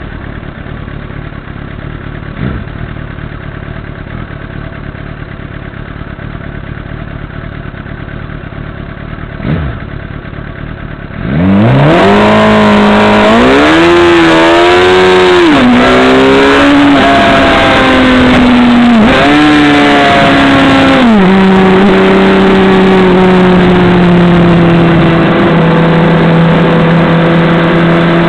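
Motorcycle engine idling quietly with a couple of light knocks, then about eleven seconds in it gets much louder as the bike pulls away, the engine note climbing and dropping with each gear change through several gears. It then settles into a steady cruise, its pitch slowly easing down.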